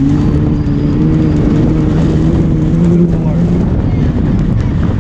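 Holden VS Commodore engine running hard at steady revs while the car slides on dirt, with a rumble of tyres and gravel underneath; the engine note rises slightly, then eases off about three and a half seconds in.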